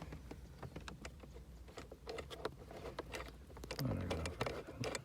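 Irregular light clicks and taps of a Torx driver and steering-wheel parts being handled while working on the airbag screws.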